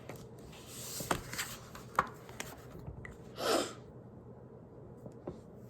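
Quiet room with a few small taps and clicks from objects being handled, and one short breath-like rush of noise about three and a half seconds in.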